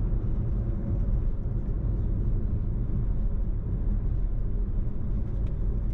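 Steady low road and engine rumble of a moving car.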